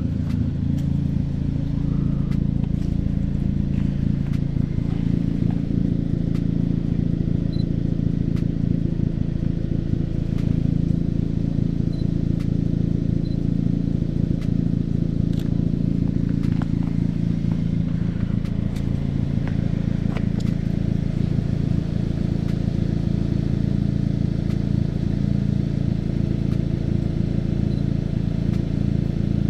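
Car engine running steadily at an even speed, a constant low hum.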